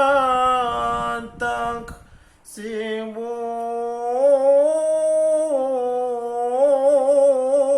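Quran recitation: one voice chanting slowly, holding long drawn-out notes with melodic turns, with a brief pause for breath about two seconds in.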